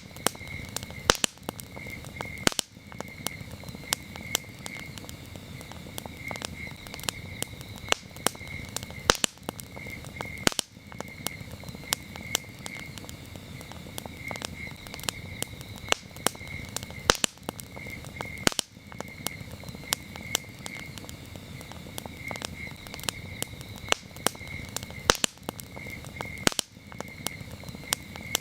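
Campfire burning, with a low steady rush and irregular sharp crackles and pops from the burning wood. Crickets chirp steadily behind it in a high, rapidly pulsing trill.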